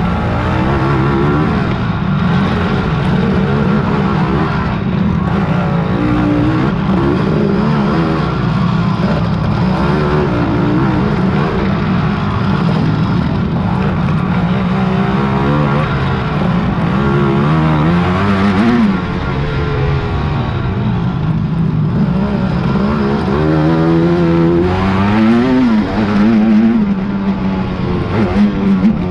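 Racing quad (ATV) engines running hard, revving up and back down several times as the machines accelerate along the course.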